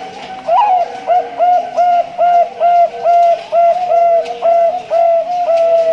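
Male Bangkok-line zebra dove (perkutut) singing: a rising opening note, then a quick, even run of about a dozen short, clear cooing notes, about three a second.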